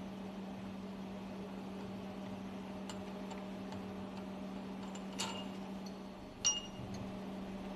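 A steady low hum with a few light metallic clinks and ticks, the two loudest about five and six and a half seconds in, each with a short ring: steel tools and parts being handled on a marine fuel injection pump during dismantling.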